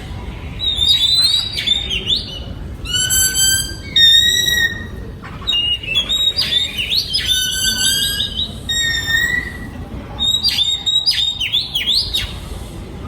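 Oriental magpie-robin singing: phrases of clear, held whistled notes alternating with quick rising sweeps and chattering notes, with short pauses between phrases.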